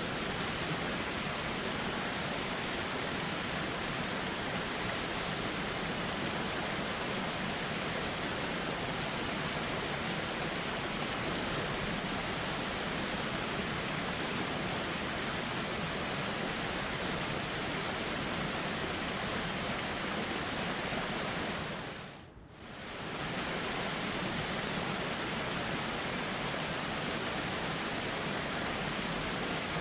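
A river flowing steadily, giving an even rushing hiss. About three quarters of the way through it fades out for a moment and comes straight back, like the join of a looped recording.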